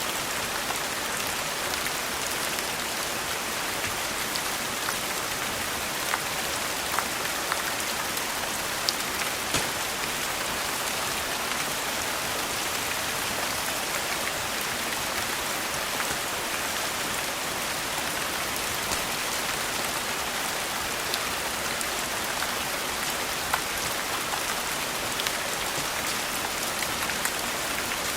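Steady rain falling, with scattered sharp crackles and pops of a wood fire in a fireplace.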